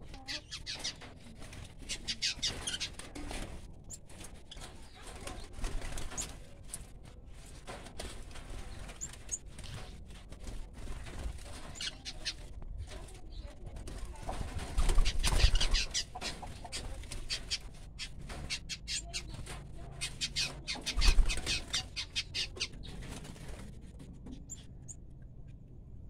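Caged aviary birds chattering in quick, high chirps, with bursts of wing flapping about halfway through and again later.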